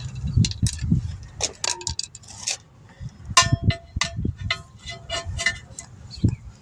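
A run of light metal clinks and knocks, several ringing briefly, from hand tools working against a wheel rim while a tire is taken off by hand, over low handling rumble.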